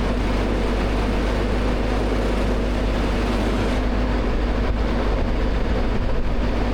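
Large engine running steadily at constant speed, with a low hum and a steady mid tone and no change in pitch.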